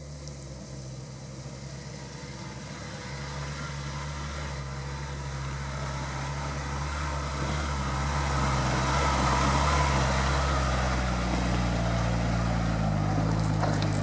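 Off-road vehicle's engine running, growing steadily louder over about nine seconds as it comes closer, then holding at a steady level.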